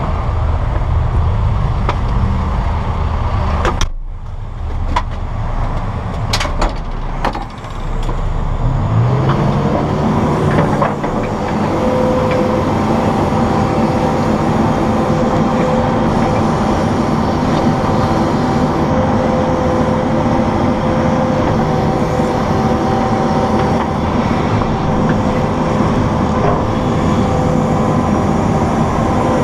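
An engine running with a low rumble, then, after a break with a few knocks, rising in speed and holding a steady high pitch for the rest of the time.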